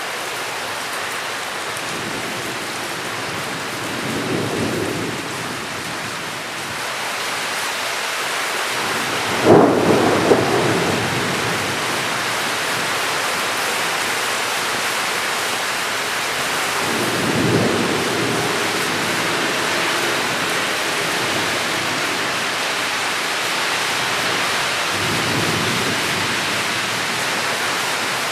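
Steady heavy rain with thunder: a loud, sharp thunderclap about a third of the way in, and softer rolling rumbles before it and twice later.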